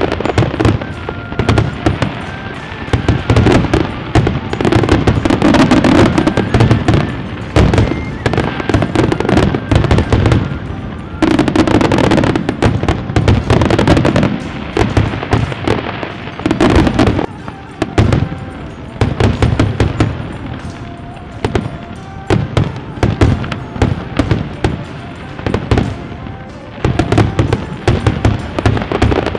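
A fireworks display going off: a dense, unbroken run of rapid bangs and crackles that swells and eases in waves, with music playing underneath.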